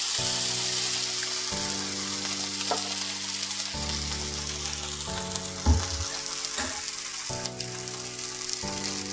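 Small rounds of poha-and-semolina batter sizzling steadily in oil on a hot tava, cooking on low heat.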